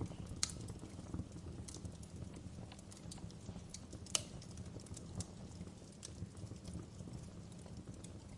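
Wood fire crackling, with a steady low rumble and many small irregular crackles. Two sharper pops stand out, one about half a second in and one about four seconds in.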